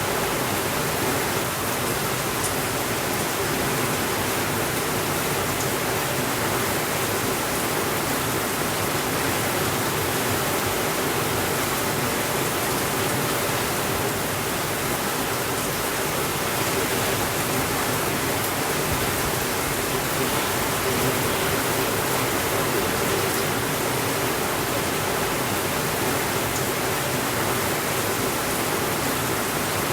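Steady rainfall, an even hiss with no thunder and no rise or fall in loudness.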